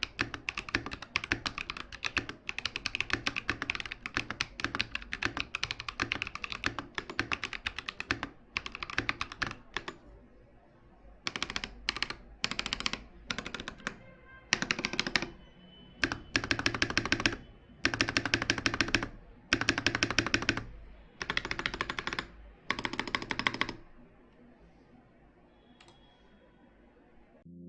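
Typing on a KM84 Plus mechanical keyboard: a fast, continuous run of key clicks for about ten seconds, then a series of separate bursts of rapid keystrokes, each about a second long. The typing stops a few seconds before the end.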